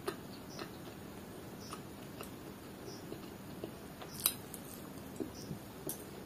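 Close-miked chewing and wet mouth clicks of someone eating chicken liver curry by hand. There are scattered small smacks, the sharpest about four seconds in.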